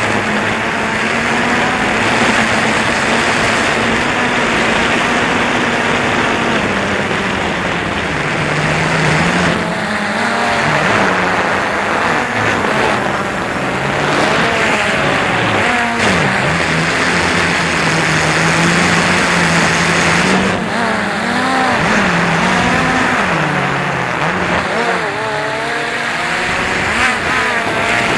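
DJI Phantom 2 quadcopter's electric motors and propellers whining. The pitch holds steady, drops about eight seconds in, then keeps wavering up and down as the motors change speed, under a steady rush of wind noise.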